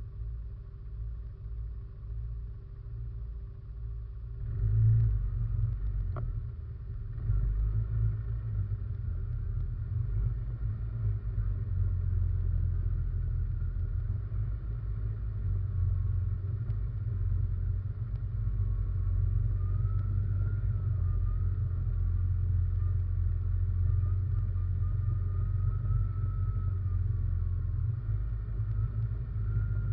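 RM 500 ATV engine running under way, heard from a camera mounted on the machine: a steady low rumble that picks up about five seconds in and stays louder, with a faint whine that rises and falls in pitch.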